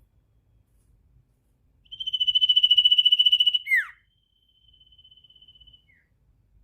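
A caged songbird ("sirtu") giving a rapid, high, buzzing trill of many fast repeated notes that ends in a quick falling note. About a second later it gives a fainter, shorter trill and then a brief single note.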